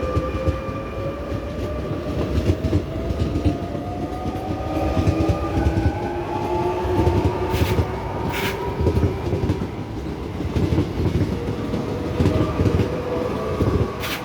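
Electric RER C commuter train accelerating. The traction motor whine rises steadily in pitch over a heavy wheel rumble and the clatter of wheels over rail joints, with a couple of sharp clicks midway.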